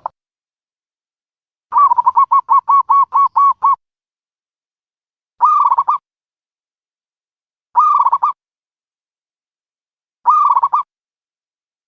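Dove calling: a quick run of about ten clipped cooing notes, then short cooing phrases repeated about every two and a half seconds.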